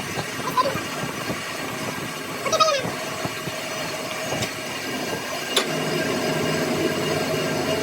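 Metalworking machinery running in a workshop. A short falling metallic squeal comes about two and a half seconds in and a sharp click a little past five seconds, after which a steadier machine hum sets in.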